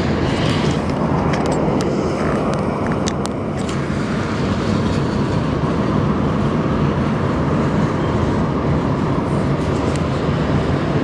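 A train rolling past: a steady loud rumble with a low engine hum, and sharp clicks in the first few seconds.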